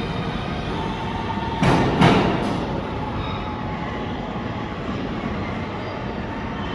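New York City subway train running through an underground station: a steady rumble of wheels on rail, with two sharp metal clanks close together about two seconds in.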